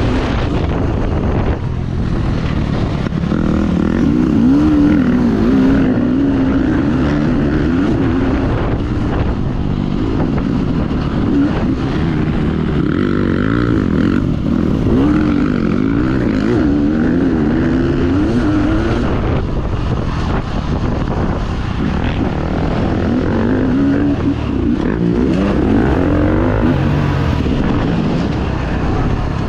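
Dirt bike engine running hard under racing, its pitch rising and falling again and again as the throttle is worked.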